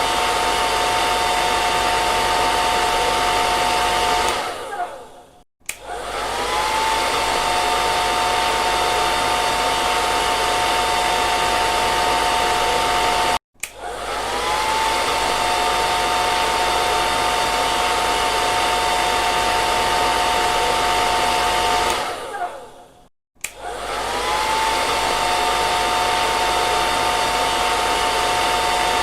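Hair dryer blowing with a steady rush of air and a motor whine. Three times it stops and starts up again with a rising whine: twice it winds down first, and once it cuts off abruptly.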